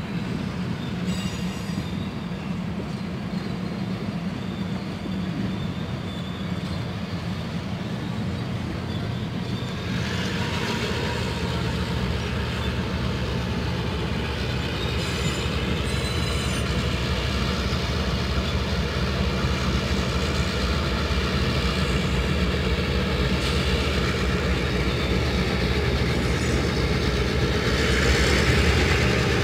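Canadian Pacific passenger train rolling slowly through a rail yard, its wheels squealing with high, held tones from about ten seconds in, strongest near the end, over a steady low drone.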